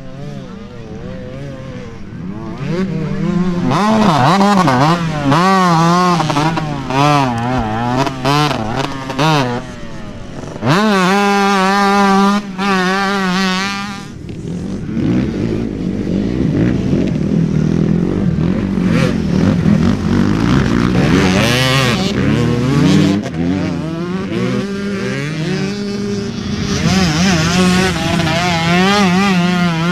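Motorcycle engine revving hard, its pitch rising and falling over and over, held high and steady for a few seconds partway through before dropping back.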